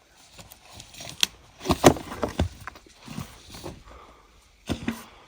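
A series of irregular knocks and clatters, loudest in a cluster about two seconds in and again twice near the end.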